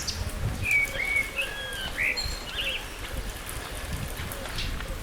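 A bird calling: several short, slurred whistled notes in the first half, over a steady background noise with low thumps and scattered clicks.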